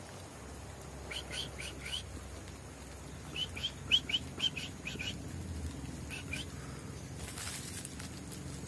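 A songbird chirping in quick runs of short, rising notes: about four chirps a second in, six more from about three and a half to five seconds, and a pair just after six seconds. A brief rustling hiss follows near the end.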